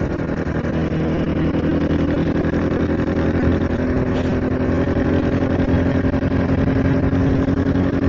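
A 70cc single-cylinder motorcycle engine running at a steady cruising pace while being ridden, with road and wind noise.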